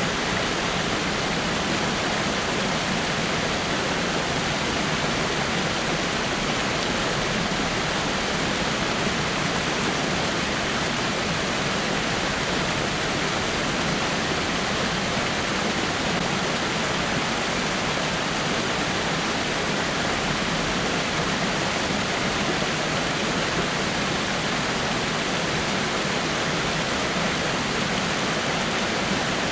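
Waterfall with water falling over rocks, a steady, even rush of water.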